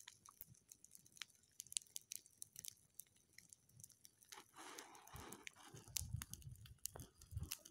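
Faint, sparse crackling of a small campfire of dry grass and sticks: scattered soft pops and snaps, with a low rumble joining in during the last couple of seconds.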